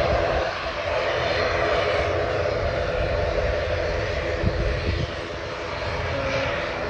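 Airliner engines running steadily, a held hum over a low rumble, easing off slightly about five seconds in.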